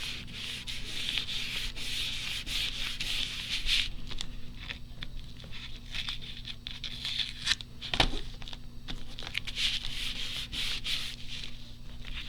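A glued paper cutout being rubbed and pressed flat onto a journal page: dry papery rubbing in repeated strokes, with one sharp knock about eight seconds in.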